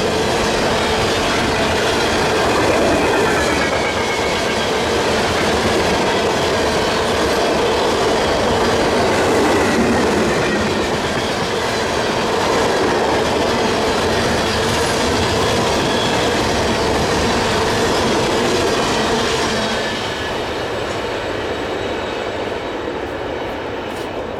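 Freight train cars rolling past at speed: steady wheel-on-rail rumble and clatter over the joints, with a faint squeal from the wheels a few seconds in. The sound eases off about twenty seconds in as the train draws away.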